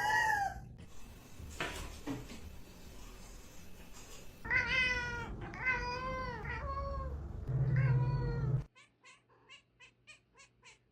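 Domestic cat meowing: one call at the very start, then a run of four or five drawn-out meows a few seconds in. Near the end the sound drops to a string of faint, quick clicks.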